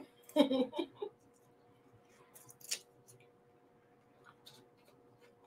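A person eating a mouthful of rice bowl: a brief muffled vocal sound through a full mouth about half a second in, then a few short wet mouth clicks around two and a half seconds in, otherwise quiet chewing.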